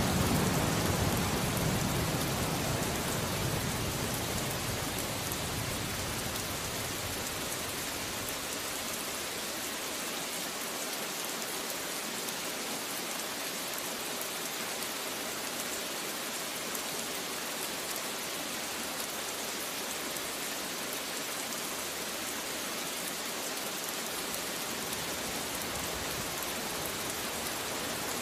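Steady rain falling, an even hiss. A low rumble of thunder dies away over the first few seconds.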